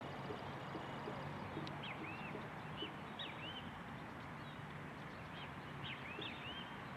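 Small birds calling in short arched chirps, in three quick groups of two or three, over a steady background hiss with a low hum.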